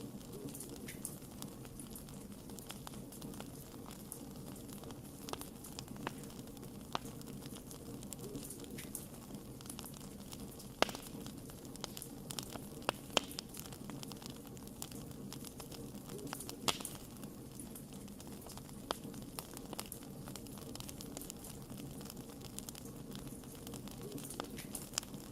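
Wood fire burning with a steady low rush and scattered sharp crackles and pops, a few louder pops standing out.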